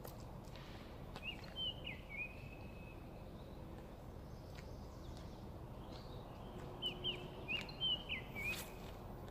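A songbird singing two short phrases of quick slurred whistled notes, each ending in a held note, about a second in and again near the end, over steady outdoor background noise.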